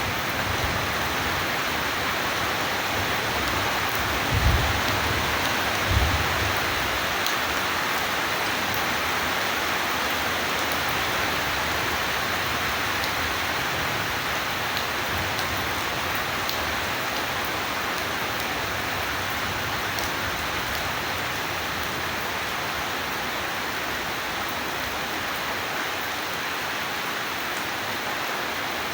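Steady heavy rain pouring down, with two short low rumbles of thunder about four and six seconds in.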